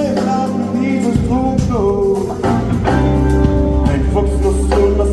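Live band playing a song, with a singing voice gliding over held chords and drum hits.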